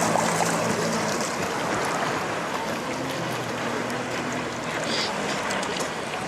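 A boat's motor droning steadily at sea, over a continuous rush of water and wind.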